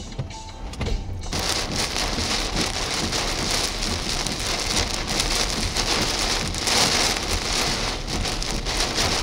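Heavy rain pouring down, a dense steady hiss that starts abruptly about a second in.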